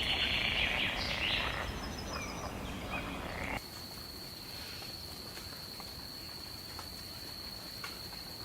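Frogs calling in a dense chorus of high croaks. About three and a half seconds in, this cuts to a single steady, high-pitched drone over a faint hiss.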